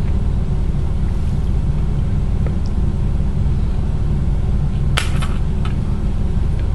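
A steady low rumble throughout, with one sharp click about five seconds in.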